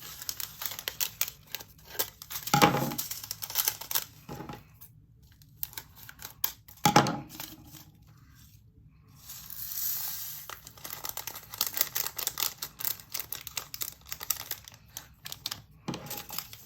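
Small plastic bags crinkling and rustling while resin diamond-painting drills tick and rattle against hard plastic storage containers, with quick clicks throughout and a few louder knocks.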